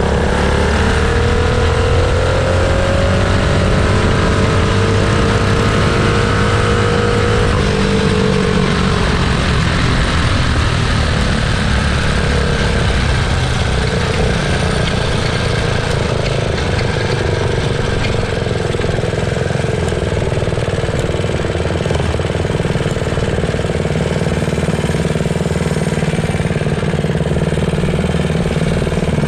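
Small mini bike engines running hard under full throttle. The pitch climbs steadily for about seven seconds as a bike accelerates, then drops away about halfway through the first third, and the engines run on at a lower, steadier pitch.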